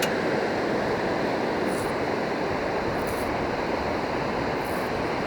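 Steady rushing noise of surf on the beach, with a few faint short hisses about every second and a half.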